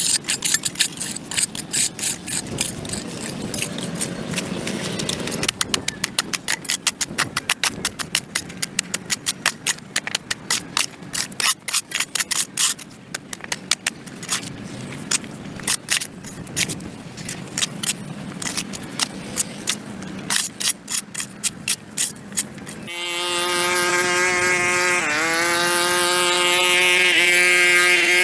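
Quick, irregular scraping and clicking of a hand tool working dirt and grass off a concrete sidewalk. About 23 s in, a small motor starts and runs with a high, steady whine that dips briefly once.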